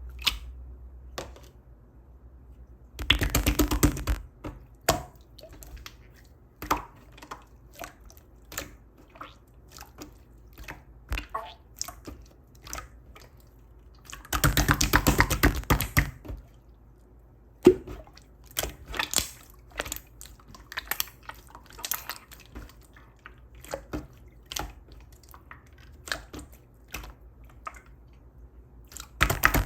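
Clear slime being squished and pressed by hand: scattered wet clicks and pops, with three runs of rapid crackling, a few seconds in, about halfway, and at the end.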